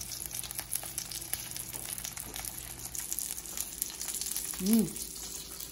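Halved garlic heads frying cut side down in hot oil in a cast iron skillet: a steady sizzle with many small crackling pops. A brief rising-and-falling tone about three-quarters of the way through.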